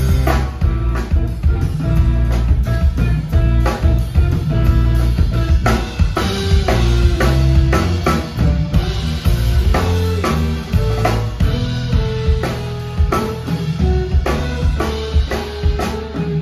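Live rock band playing an instrumental passage without vocals. A drum kit's kick, snare and rimshot hits are prominent, over a moving bass line and held melodic lines from the guitar and keyboards.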